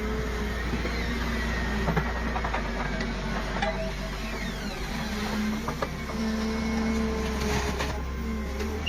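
Machinery running steadily, with a constant low hum, pitched whining tones that come and go, and scattered clicks and knocks.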